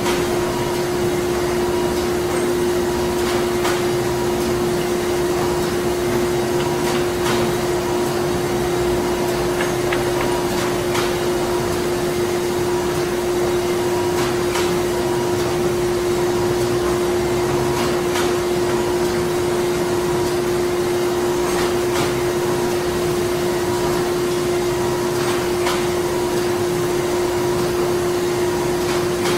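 Printing-plant machinery running steadily: a constant mechanical hum over even machine noise, with faint clicks every few seconds.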